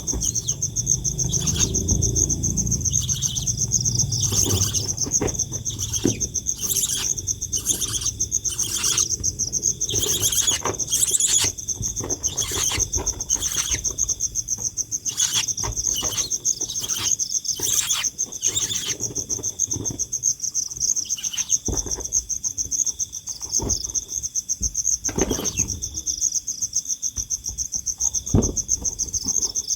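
A steady, high-pitched insect trill runs throughout, broken by many short sharp clicks or knocks, most frequent in the first twenty seconds.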